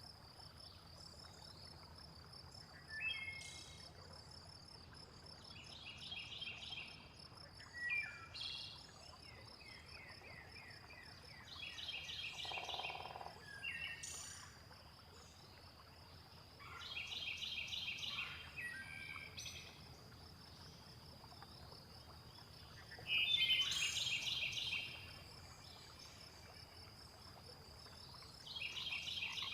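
Songbirds singing short phrases of quick repeated chirping notes every few seconds, over a steady high pulsing trill of crickets.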